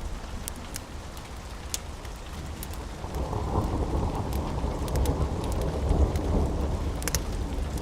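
Low rolling thunder that swells about three seconds in, over steady heavy rain, with scattered sharp crackles and pops from a wood fire.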